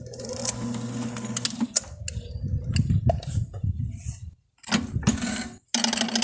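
Electric drain-cleaning machine clearing a clogged 3-inch drain line. Its motor hum starts and stops, with clicks and knocks throughout and two short quiet gaps in the second half.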